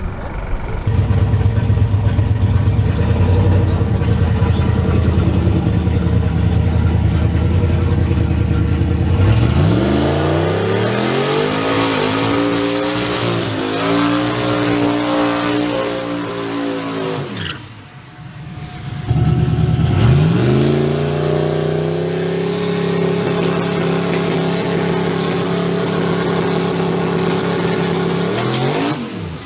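Turbocharged drag-racing truck engine running hard on a pass. It is loud and steady at first, then climbs in pitch in steps as it accelerates through the gears, drops out briefly about two-thirds of the way in, then climbs again and holds before falling off at the end.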